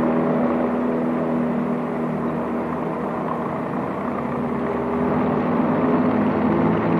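A motor vehicle engine running steadily, its hum fading out about halfway through and leaving a rough noise.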